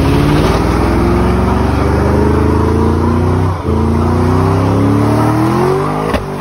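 Car engine held at high revs while its drive wheel spins, as in a sideshow burnout or donut. The pitch creeps slowly upward, dips briefly about three and a half seconds in, and a sharp click comes near the end.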